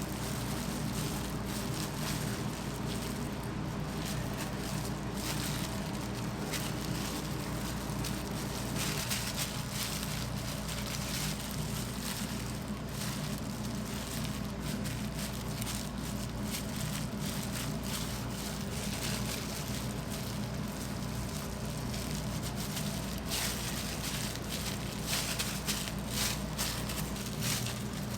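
Restaurant kitchen sounds: a steady machine hum under light crackling and scattered clicks and clatter.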